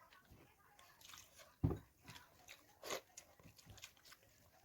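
Close-miked eating sounds: small wet clicks and crunches of biting and chewing food, with a heavier thump about a second and a half in and a louder crackling bite near the three-second mark.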